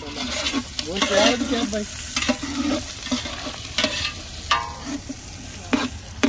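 Onions frying in oil in a large metal pot on a gas burner, sizzling steadily, while a metal ladle stirs them and knocks and scrapes against the pot every second or so.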